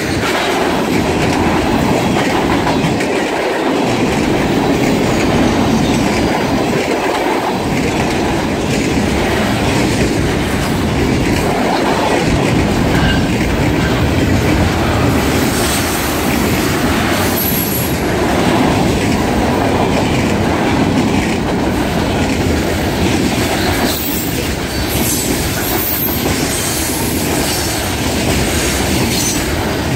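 Railroad cars rolling steadily past close by: a continuous rumble of steel wheels on rail, with a few brief high wheel squeals about halfway through and again near the end.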